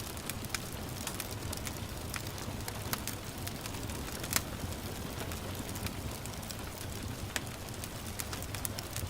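Wood fire crackling with scattered sharp pops over a steady hiss of gentle rain; one louder pop about four seconds in.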